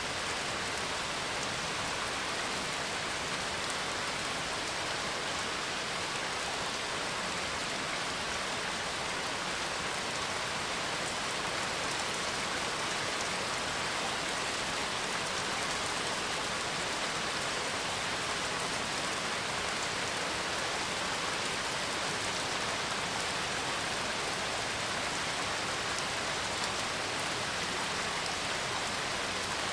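Steady rain falling, an even patter of drops on a surface with no thunder.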